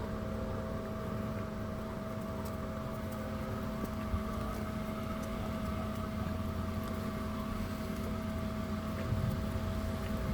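A steady mechanical hum with a low rumble under it, holding one even pitch throughout, like a running motor.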